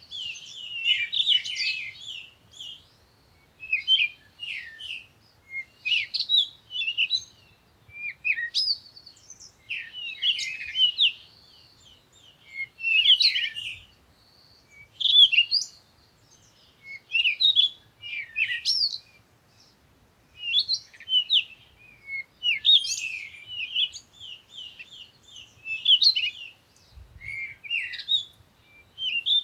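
Songbirds singing: short phrases of quick, high chirping notes, repeating every two to three seconds.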